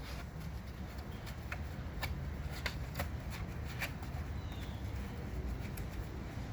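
Brush scrubbing a car tire: scattered scratchy strokes and light clicks at uneven intervals, over a low rumble.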